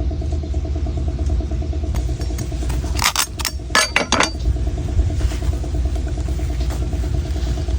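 A quick run of five or six sharp knife chops into a coconut about three seconds in, over a steady low motor hum.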